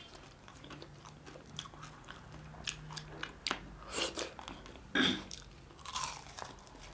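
People chewing and biting into fried small fish, with a run of crunches and crackles; the sharpest crunches come about four and five seconds in.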